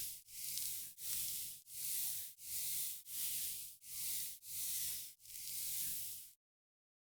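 Soft hissing strokes repeated in an even rhythm, about one and a half a second, each lasting about half a second: a skincare tool or pad being brushed or wiped rhythmically close to the microphone. The strokes stop about six seconds in.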